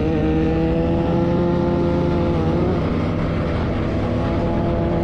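Vehicle engine running at a steady speed, its pitch dipping slightly about two and a half seconds in.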